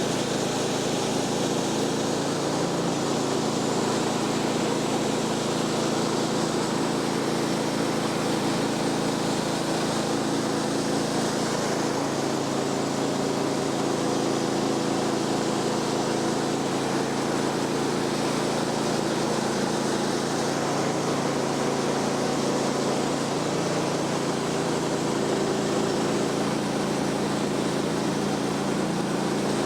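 Small gasoline engine of a Woodland Mills HM126 portable sawmill running steadily at a constant speed.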